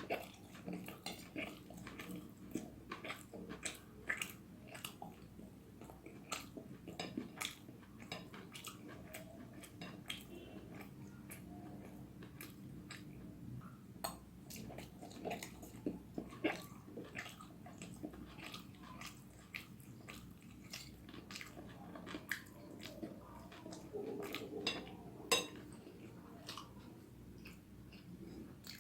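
Close-miked eating: a person chewing mouthfuls of spicy vegetable noodles, with many small irregular wet clicks and smacks of the mouth. A faint steady low hum runs underneath.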